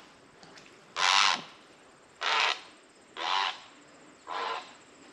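A bird calling: a series of harsh, nasal, kazoo-like calls about a second apart, about four in all, the first the loudest.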